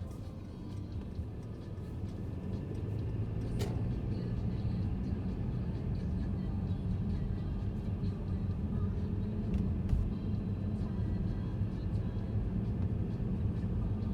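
Mercedes-Benz C300 (W205) driving: a steady engine and road rumble that grows louder over the first three seconds and then holds, with one sharp click a little over three and a half seconds in.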